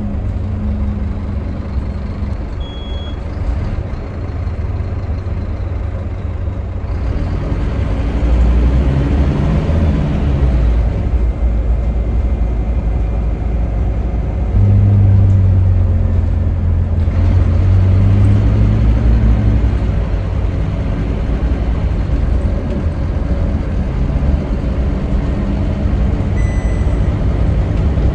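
Scania K310UB city bus's diesel engine running under way, its low drone shifting in pitch and getting louder in stretches as the bus pulls and eases off, over steady road noise.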